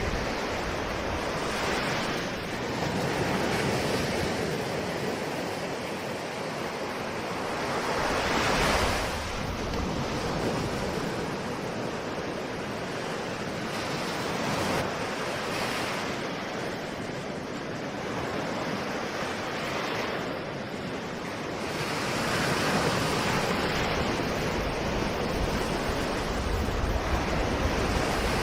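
Ocean waves washing onto a shore, the surf swelling and falling back every few seconds, with some wind.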